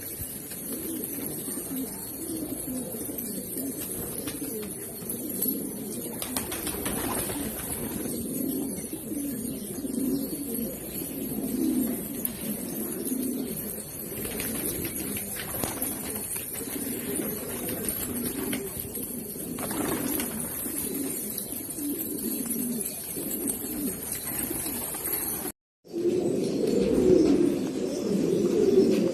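A flock of domestic pigeons cooing continuously, many coos overlapping. There is a brief gap about 26 seconds in, after which the cooing is louder.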